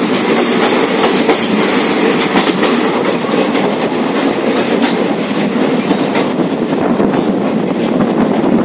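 Train running on the rails: a steady rushing rumble with irregular wheel clatter over the rail joints, heard from the open door of a moving coach.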